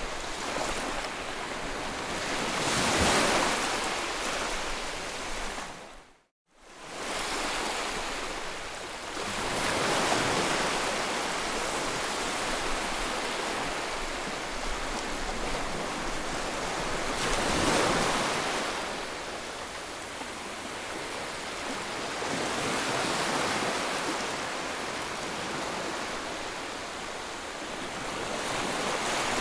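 Ocean surf: waves break and wash in as a steady hiss that swells and fades every several seconds. About six seconds in the sound cuts out completely for a split second.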